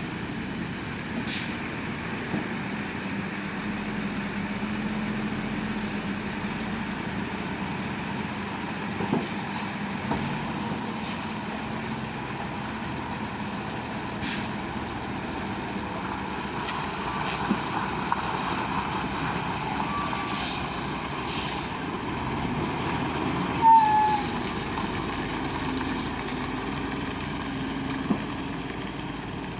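Lorry's diesel engine running steadily as it drives, with a short high squeak about three-quarters of the way through.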